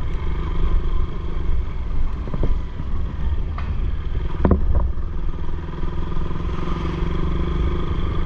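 Motorcycle engine running steadily while riding, its note dipping slightly in the middle and picking up again near the end, with road rumble and a few sharp knocks, the loudest about four and a half seconds in.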